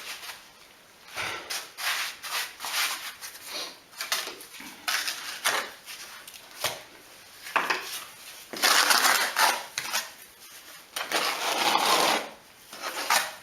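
Bricklaying with a trowel: a run of short taps and knocks on bricks set in mortar, then two longer stretches of scraping, like a trowel working mortar against brick.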